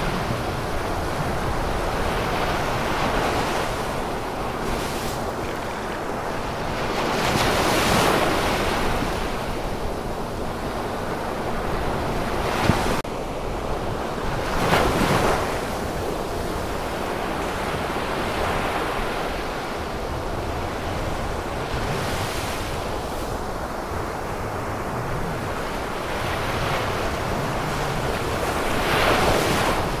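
Ocean surf: a steady wash of breaking waves that swells into louder surges every several seconds as waves come in.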